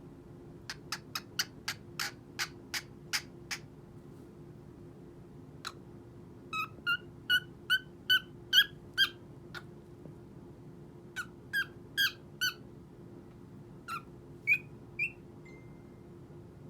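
Cockatiel giving short, sharp chirps in several quick runs, the first run click-like and the later ones higher and clearer. A steady low hum runs underneath.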